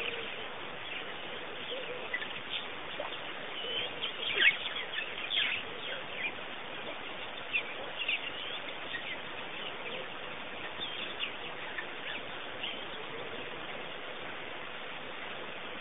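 Wild birds chirping: many short, scattered high calls over a steady background hiss, busiest a few seconds in.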